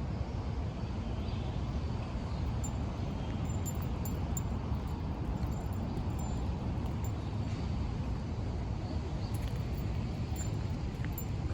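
Outdoor city street ambience: a steady low rumble with nothing standing out.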